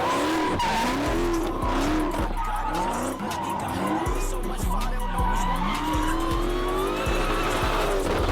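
Dodge V8 muscle car drifting: the engine revs up and down again and again as the tyres squeal.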